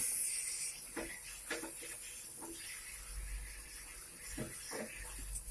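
A hiss, loudest in the first moment and then settling to a steady lower hiss, with a few light knocks and clicks from work on the equipment.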